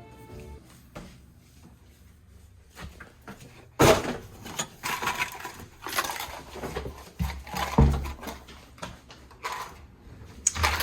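Rummaging: irregular knocks, clatters and rustling as objects are handled and set down, with a sharp knock about four seconds in.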